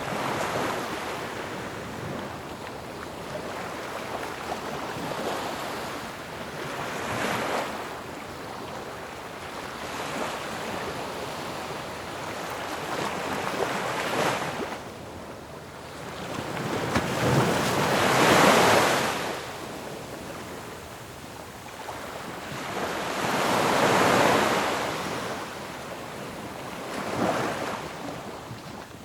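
Ocean waves breaking on a shore: a steady wash of surf that swells into a louder crash every few seconds, the biggest about two-thirds of the way through.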